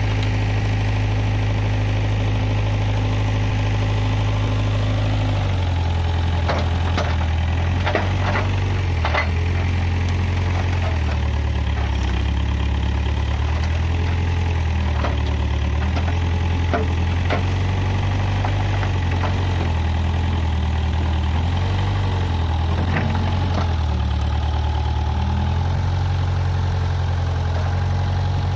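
Case 580G backhoe loader's diesel engine running steadily, its low note dropping about five seconds in and shifting up and down with load after that, with scattered sharp knocks through the middle.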